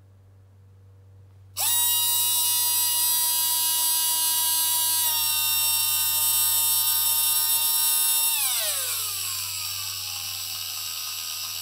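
Electric motor in a 3D-printed drive case, spinning a fan. It starts suddenly about a second and a half in with a steady high whine, drops slightly in pitch partway through, then winds down with falling pitch near the end as its commanded speed is cut.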